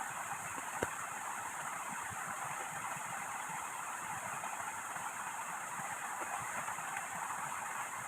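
Heavy rain falling steadily as a dense, even hiss, with one sharp tap a little under a second in.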